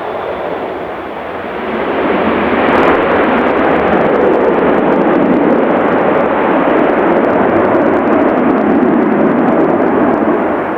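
Jet airliner on its landing run, its engine noise swelling about two seconds in to a loud, steady roar that eases slightly near the end.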